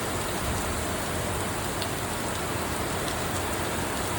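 Heavy downpour falling steadily, with rain hitting the ground and surfaces.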